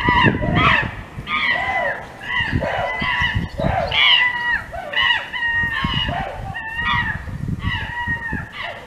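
Birds calling: a steady run of short, pitched calls, one or two a second, over some low rumbling.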